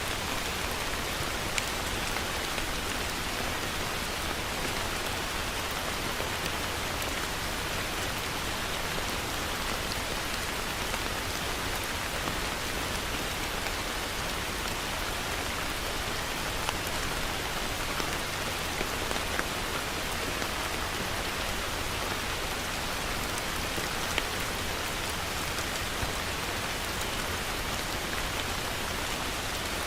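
Heavy rain falling steadily, with a few sharper drop ticks standing out here and there.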